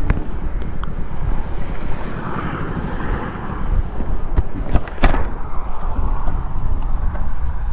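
Wind rumbling on the microphone over road traffic noise, with a vehicle passing about two to three seconds in and a sharp click about five seconds in.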